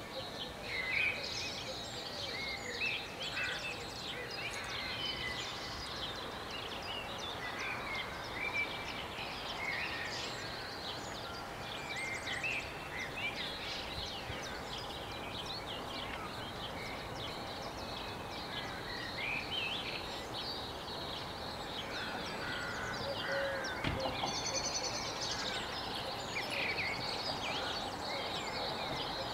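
Several songbirds singing, with many overlapping high chirps and trills, over a steady background of town noise. There is a single sharp click about 24 seconds in.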